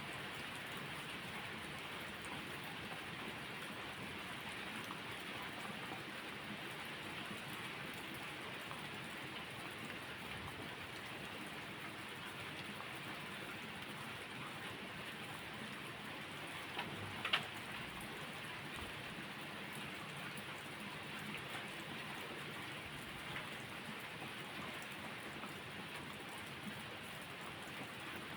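Steady rainfall, an even hiss of rain on a surface. About two-thirds of the way through, two sharp pops close together stand out above the rain.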